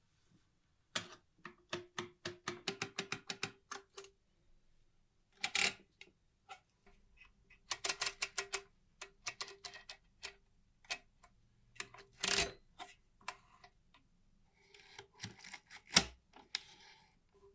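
Old mechanical calculator's metal mechanism clicking and clacking in quick irregular runs, many clicks with a short metallic ring, broken by a few louder single knocks.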